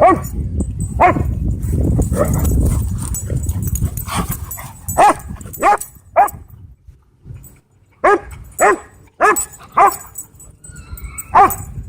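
A dog barking in short single barks, about ten in all, several coming in quick runs about half a second apart. A low rumble sits under the first few seconds.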